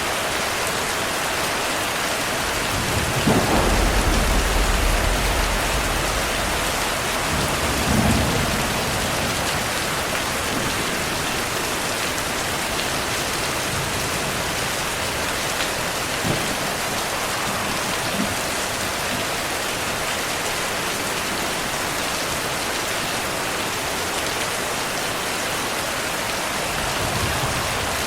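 Heavy rain falling steadily, with a low rumble of thunder about three seconds in that lasts a few seconds and a shorter rumble near eight seconds.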